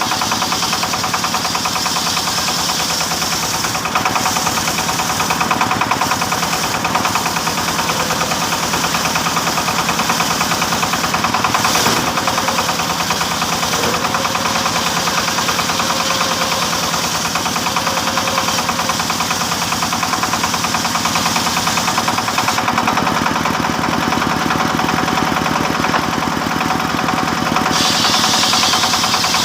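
An engine-driven saw running steadily while sawing teak timber, with a fast, even engine beat under a higher cutting hiss that shifts in strength a few times.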